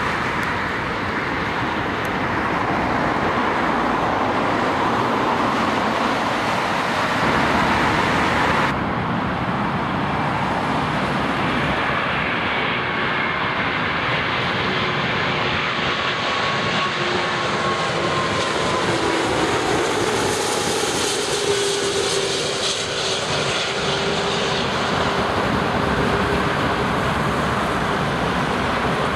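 Airbus A340 four-engine jet airliner passing by. Its engine whine falls in pitch as it goes past and is loudest a little past the middle. Before that there is a steady rushing noise that changes abruptly about nine seconds in.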